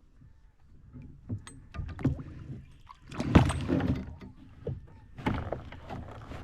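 Irregular knocks, scrapes and splashy noise bursts, as from handling near the water, the loudest about three seconds in and again near five seconds.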